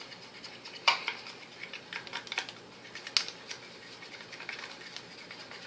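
Irregular clicks and taps of a utensil stirring glue and laundry detergent in a small bowl to make slime, with two sharper knocks, about one second in and about three seconds in.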